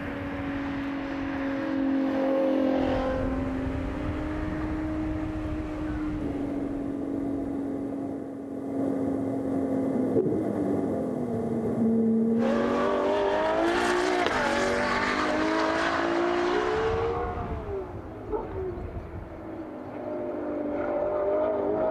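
Ferrari 812 Competizione's naturally aspirated 6.5-litre V12 running at a steady engine speed. A little past halfway the pitch dips, then climbs and grows louder and harsher as the revs rise for a few seconds before dropping back. The revs rise again near the end.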